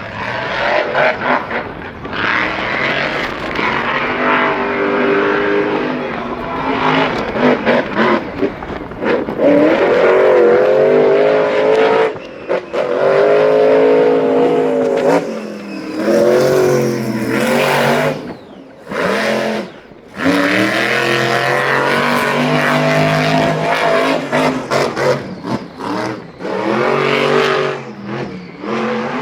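A powerful racing engine revving hard, its pitch climbing and falling with the throttle, with several short lifts off the gas.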